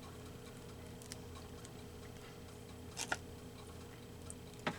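Quiet tabletop handling while arranging paper collage pieces: two short light clicks, one about three seconds in and one near the end, over a steady low hum.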